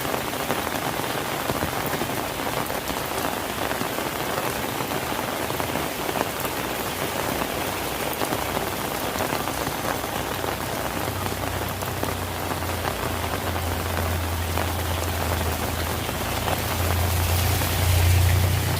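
Steady rain falling and pattering on surfaces. About two-thirds of the way through a low hum comes in and grows louder toward the end.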